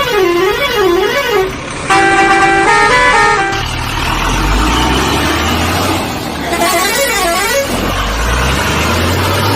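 A vehicle horn sounds a warbling, siren-like tone, then a short stepped tune of held notes about two seconds in. A low engine rumble follows, and the warble comes back briefly about seven seconds in.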